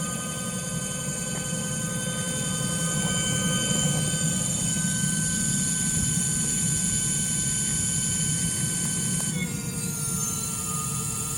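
Direct-drive brushless hub motor running at steady speed with an electric whine of several steady tones over a low rumble; about nine seconds in the whine steps down in pitch and keeps sliding lower as the motor slows.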